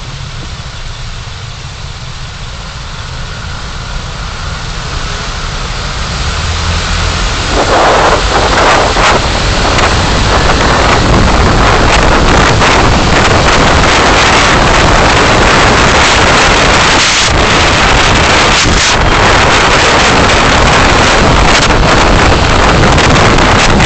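Car heard through a dashcam: a low engine rumble that swells, about seven seconds in, into a loud, steady rushing noise of wind and road as the car gets moving.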